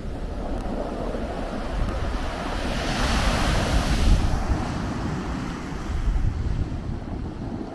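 Blizzard wind gusting over the microphone in a heavy, uneven rumble, with a louder rushing surge about three seconds in.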